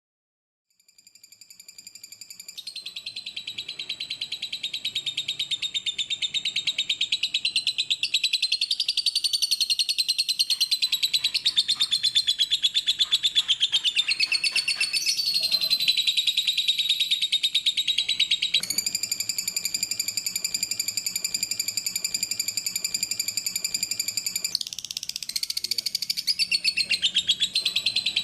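Lovebird singing a long, unbroken, rapid high-pitched chatter that shifts in pitch several times, fading in from silence about a second in.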